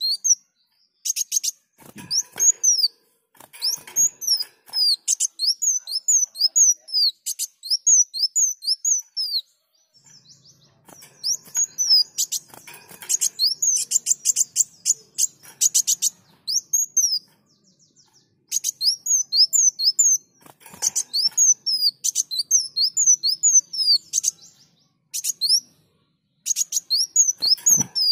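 Kolibri wulung sunbird singing in full voice: rapid runs of high, thin, falling whistled notes mixed with fast buzzy trills, in bouts broken by a few short pauses.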